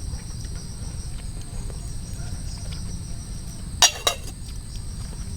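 Steady high-pitched chirring of crickets or similar insects. About four seconds in come two sharp clinks, close together.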